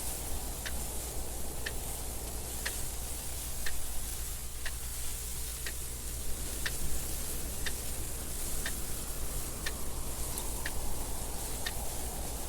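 Clock ticking steadily about once a second over a continuous wind noise.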